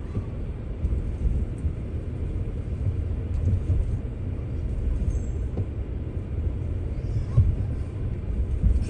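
Steady low rumble of a vehicle on the move, road and engine noise with a few small knocks.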